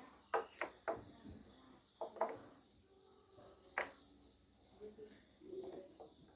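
Light clicks and knocks of tools or small metal engine parts being handled, about six sharp taps in the first four seconds, followed by faint rustling.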